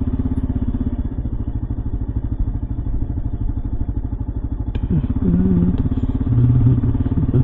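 Kawasaki KLR 650's single-cylinder engine running steadily at low speed. From about five seconds in, the rider hums a tune over it.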